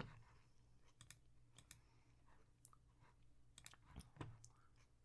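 Faint computer mouse clicks at irregular intervals over a low steady hum.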